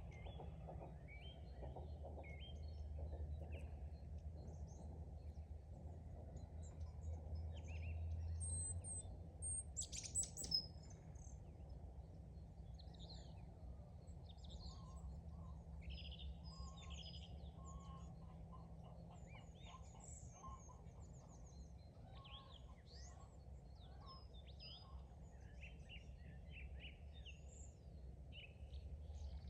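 Several small birds chirp and sing in short calls and trills over a steady low background rumble. About ten seconds in there is one brief, sharp sound, the loudest in the stretch.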